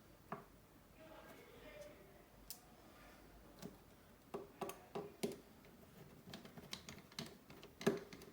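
Irregular small clicks and taps of hand tools against the parts of a smartphone being taken apart, a dozen or so, coming more often in the second half, with the loudest near the end.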